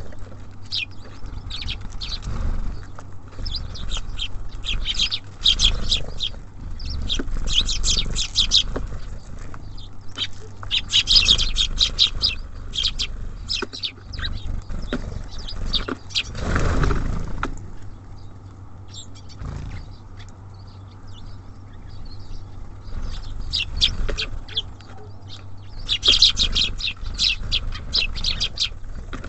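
Small songbirds at a feeder chirping in repeated clusters of short, high chirps, over a steady low rumble. A brief louder, lower sound comes a little past halfway.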